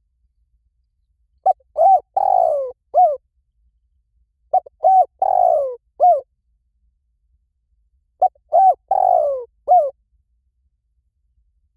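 Spotted dove cooing: three identical phrases about three seconds apart, each of four notes, two short coos, a longer coo that falls in pitch, then a short final coo. This is the call used as a lure to bring spotted doves in.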